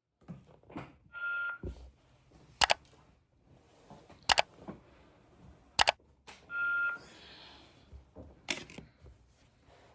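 Two short electronic beeps, each about half a second long, with four sharp, loud clicks spaced a second or two apart between and after them.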